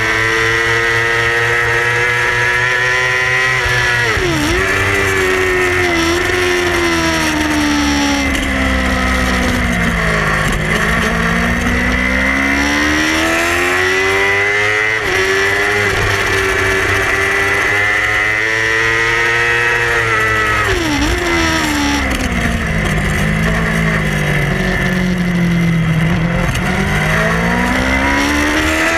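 Yamaha R6 600cc inline-four race bike engine at racing revs, its pitch climbing and falling repeatedly as it accelerates and slows. The pitch drops sharply and briefly at gear changes, about three times.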